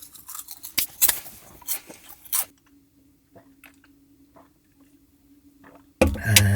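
Crunchy squid chips being chewed: a string of sharp crunches over the first two seconds or so, then quiet chewing under a faint steady hum. A voice begins near the end.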